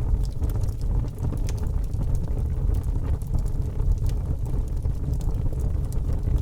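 Wood fire burning in a fireplace: a steady low rumble from the flames with frequent small crackles and pops of burning wood.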